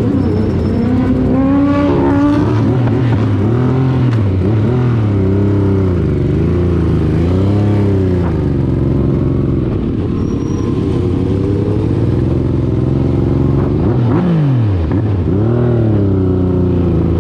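Motorcycle engines revving, their pitch rising and falling again and again. About fourteen seconds in, one passes by with a quickly falling pitch.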